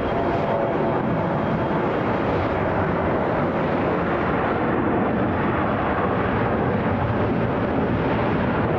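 Jet engine noise from a Delta Boeing 767-400ER's twin turbofans as it comes in to land: a steady, loud rushing that holds level throughout.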